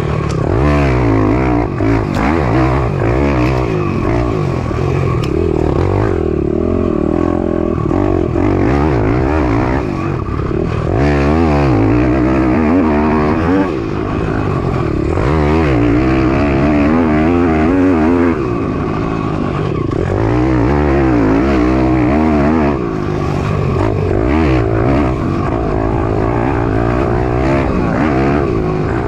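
Piranha 190 pit bike's single-cylinder four-stroke engine under hard riding, its pitch rising and falling over and over as the rider accelerates and backs off. There are a few short drops in loudness where the throttle is closed.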